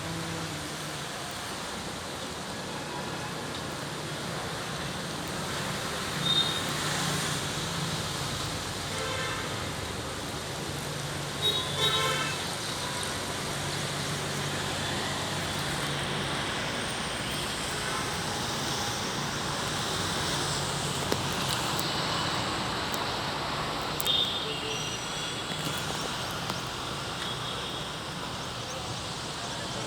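Road traffic on a rain-soaked highway: a steady hiss of passing vehicles, with short vehicle-horn toots about six seconds in, around twelve seconds and again near twenty-four seconds.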